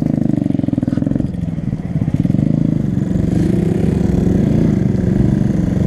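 Honda Grom's small single-cylinder engine running at low speed, easing off briefly a little over a second in, then holding steady.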